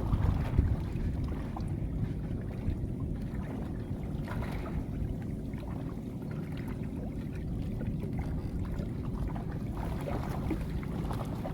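A small boat running on the river: a steady low rumble with a faint constant hum.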